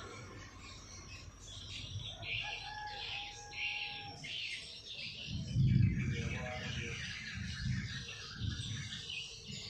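Small songbirds chirping and calling in quick, repeated short phrases. Low rumbling thumps break in, the loudest about halfway through.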